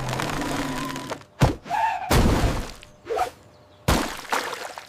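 Cartoon crash sound effects: a rushing noise, then a sharp thud about a second and a half in, a burst of crashing and breaking noise around two seconds, and another sudden hit near four seconds.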